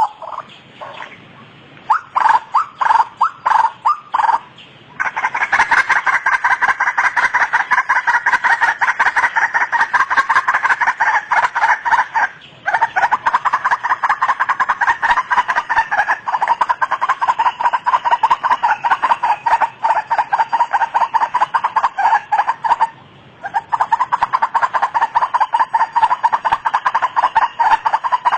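White-breasted waterhen (ruak-ruak) calling. It starts with a few separate notes, then runs into a fast, continuous series of repeated notes that breaks off briefly twice.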